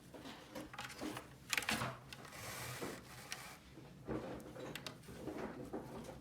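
Small plastic toy pieces being handled: a run of light clicks and knocks, with a rustle from about two seconds in to about three and a half seconds.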